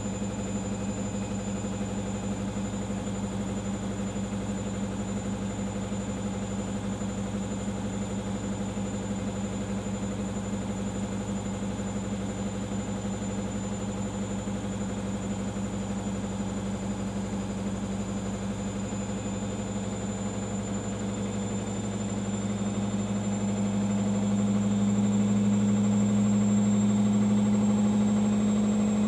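Arçelik 5083 front-loading washing machine in its final spin, the drum turning fast with a steady motor hum and a faint high whine. About three quarters of the way in, the hum grows louder and slightly higher as the spin speeds up.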